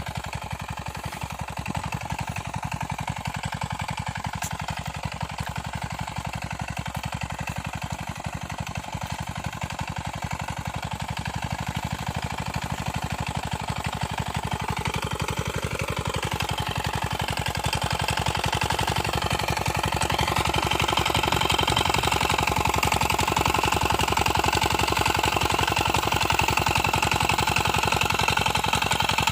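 Engine of a small homemade tractor running steadily, its firing pulses even throughout; it grows louder about two-thirds of the way in.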